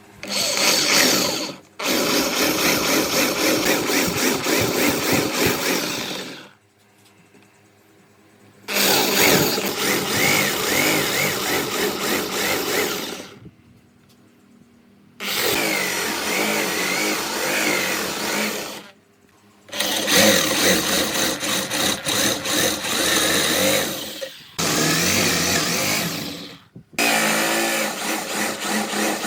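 A woodworking power tool running in seven separate passes of about two to five seconds each, with short pauses between them. Its pitch wavers while it works.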